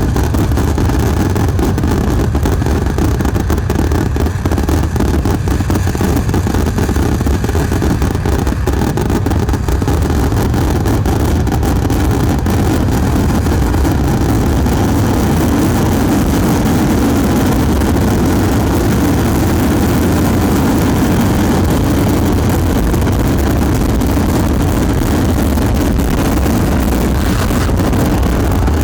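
A continuous fireworks barrage: firecracker explosions in rapid succession, so dense that the bangs merge into a steady rumble with crackle on top.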